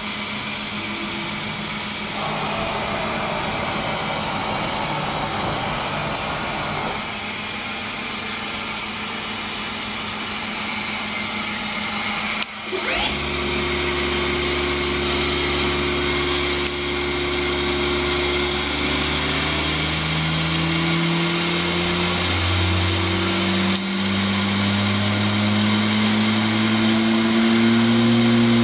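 Mazak VTC20C vertical machining centre running: a steady hiss for the first half, then after a brief dip about halfway, motor tones come in and climb slowly in pitch.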